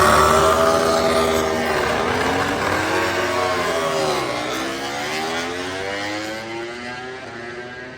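MotoGP racing motorcycle engines at high revs during practice starts. The engine note falls in pitch to a low point about four seconds in, then rises again as a bike accelerates, and the sound slowly fades.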